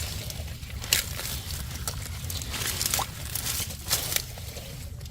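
Irregular wet crunching, crackling and squelching of hands working through mud and shallow water while groping for catfish, with a sharp click about a second in.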